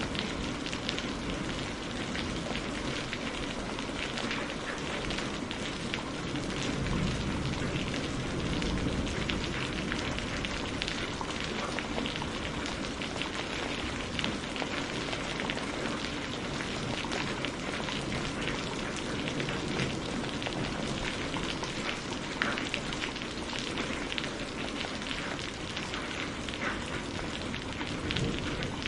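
Steady rain falling, a dense even hiss with many individual drops pattering on surfaces.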